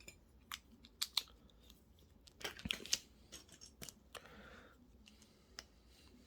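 Plastic LEGO pieces being handled and pressed together: scattered sharp clicks with a short cluster of clicking and rustling around three seconds in.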